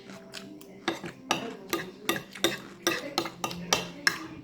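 Cutlery clinking and scraping against a dish while eating, a quick run of sharp clicks about three a second.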